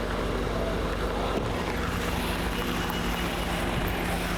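Steady rushing wind noise on the microphone with a low steady hum underneath.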